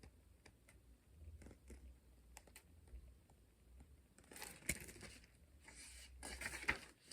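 Faint clicks, then soft paper rustling twice, about four and six seconds in, from handling a picture book as its pages are turned.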